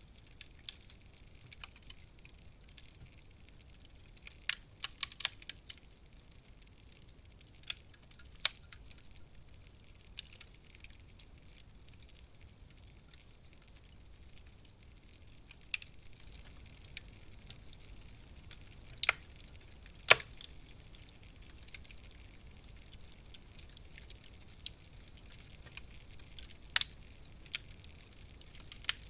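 Wood fire in a fireplace crackling: scattered sharp pops and snaps over a faint low hiss, with a quick cluster of pops about five seconds in and the loudest snap about twenty seconds in.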